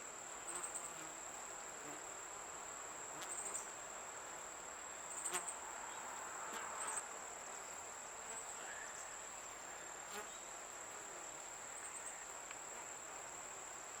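Honeybees humming around an open hive, with a steady high-pitched cricket trill behind them. A few soft bumps are scattered through.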